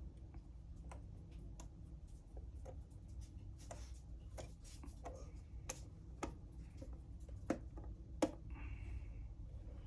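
Scattered light clicks and taps of small 3D-printed plastic model parts being handled and fitted together, a few sharper clicks in the second half, over a low steady hum.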